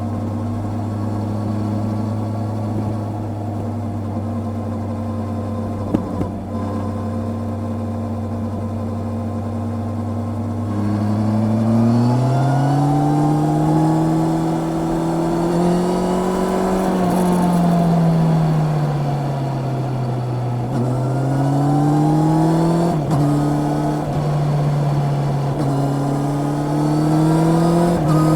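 Honda CB650R's inline-four engine heard on the move: a steady note for about ten seconds, then the pitch climbs under acceleration, falls back as the throttle eases, and climbs again with brief dips that fit quick-shifter upshifts. A single sharp click stands out about six seconds in.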